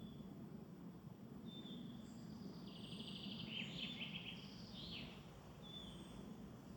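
Woodland birds singing: one bird repeats a short, high, falling call about every two seconds, and another sings a rapid trilled phrase near the middle, over a faint low steady rumble.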